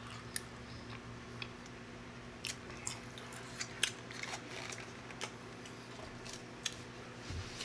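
A person chewing food close to the microphone: soft wet mouth clicks and smacks, scattered irregularly, over a faint steady hum.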